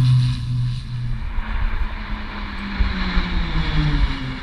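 Aircraft engine flying past, its tone falling slowly in pitch as it goes by, with a rushing noise swelling midway, over low wind rumble.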